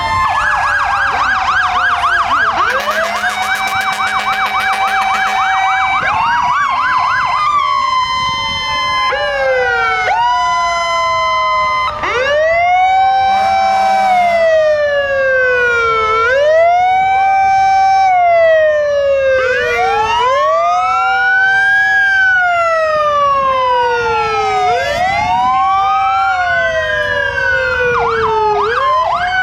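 Several fire truck sirens sounding at once. For the first six seconds one gives a fast yelp. After that, overlapping wails rise and fall every few seconds over a long tone that slides slowly downward.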